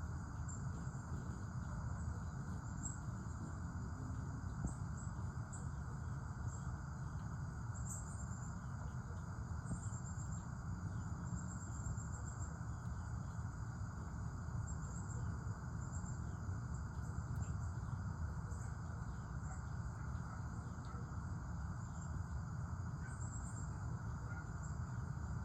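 Insects chirping in short, high, buzzy trills that repeat irregularly throughout, over a steady low rumble.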